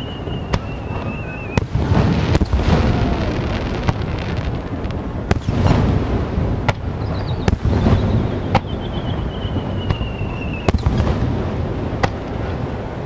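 Aerial fireworks shells bursting in quick succession: sharp bangs and crackles over a continuous low rumble. Twice, a long whistle falls slightly in pitch and ends as a shell bursts.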